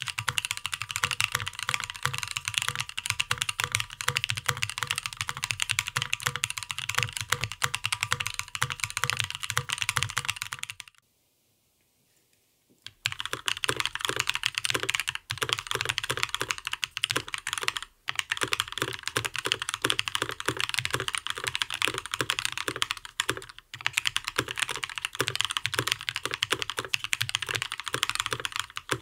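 Fast continuous typing on a custom mechanical keyboard with linear switches, lubed and on light springs, in an aluminium-plate Gentoo case with foam and PBT keycaps. There are dense clacks of keystrokes, a pause of about two seconds just before the middle, and then typing again.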